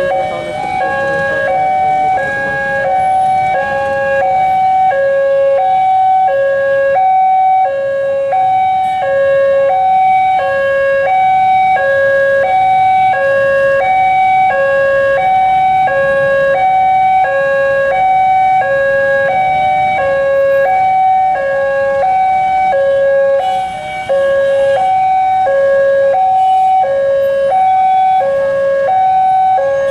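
Railway level-crossing warning alarm sounding: an electronic two-tone chime that switches steadily back and forth between a higher and a lower note, signalling that a train is approaching. Road-traffic rumble runs underneath.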